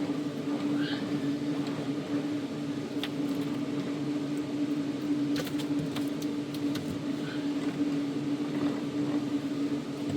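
Steady electric fan hum, one even tone with no change, with a few faint clicks and taps over it.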